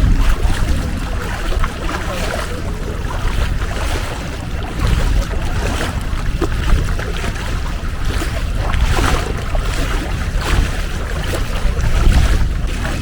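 Longtail boat's engine running steadily under way, a loud low drone mixed with rushing wind and water noise.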